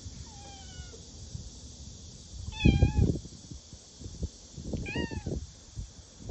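Stray cat meowing three times: a faint falling meow near the start, a loud one about two and a half seconds in, and a shorter rising-then-falling meow near the end.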